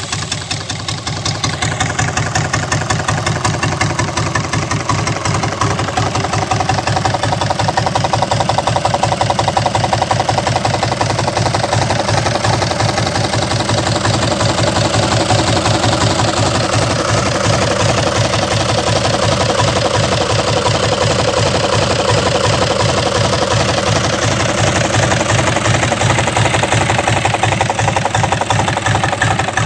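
Nissan Diesel FE6 12-valve inline-six diesel engine idling steadily, with the rapid even clatter of its firing.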